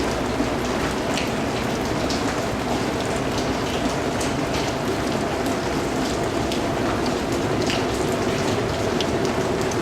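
Steady rain falling, a dense patter of drops with distinct individual drop hits scattered throughout.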